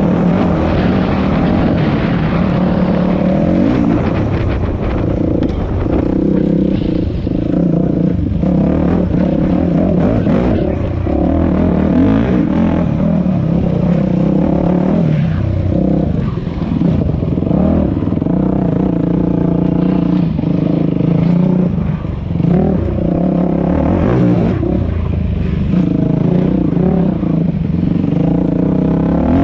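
Dirt bike engine running with the revs rising and falling under throttle.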